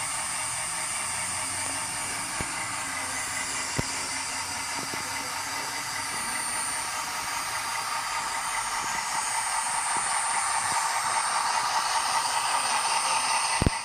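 Steady hiss with a few faint clicks scattered through it.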